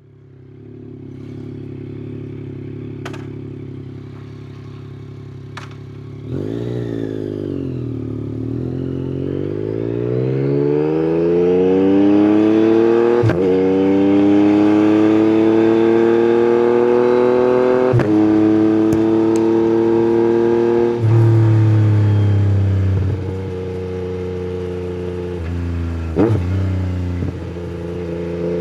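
Yamaha MT-09's inline three-cylinder engine through an Akrapovic exhaust: it idles steadily, then pulls away and revs up hard, with brief breaks in the note at the gear changes, holds a high steady note, drops to a lower cruising note about 21 seconds in, and rises again near the end.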